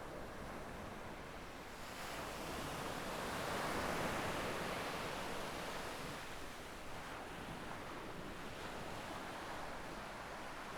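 Small waves breaking and washing up a sandy beach, the surf swelling to its loudest about four seconds in, then settling to a steady wash.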